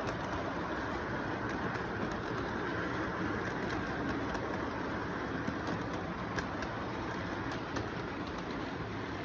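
Model train running steadily along its track: an even rumble with scattered light clicks.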